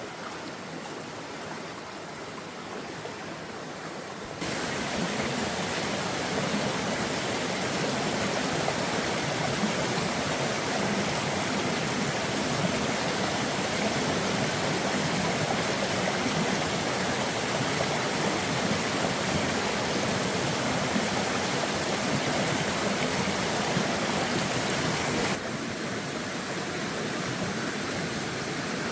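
Steady rush of flowing water. It jumps suddenly louder about four seconds in and drops back just as suddenly near the end.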